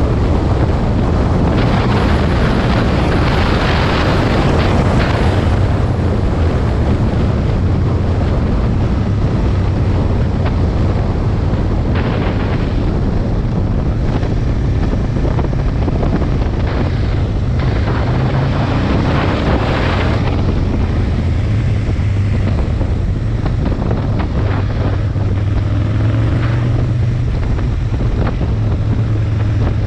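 Aprilia Tuono Mille's V-twin engine running while riding, with heavy wind noise on the microphone; the engine note shifts up and down a few times and the wind swells in gusts.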